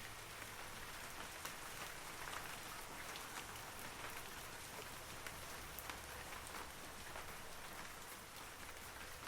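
Steady rain falling on forest trees, an even hiss with many separate droplet ticks scattered through it.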